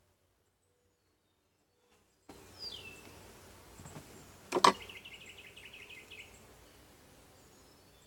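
Dead silence for about two seconds, then outdoor sound cuts back in. A bird gives a falling whistle, then comes a single sharp knock, the loudest sound, followed by a bird's rapid trill lasting about a second and a half.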